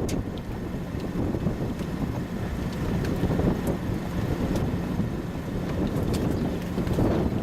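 Gusty wind buffeting the microphone: a low, uneven rumble that swells and drops, with a few faint ticks.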